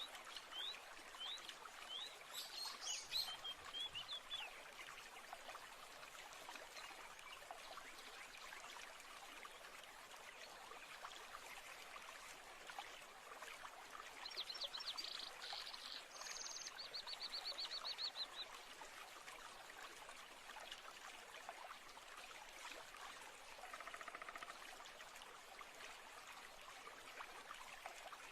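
Steady flow of a stream or brook, with birds singing over it. There are short rising chirps in the first few seconds, a fast trill of repeated high notes about halfway through, and a lower call a few seconds after that.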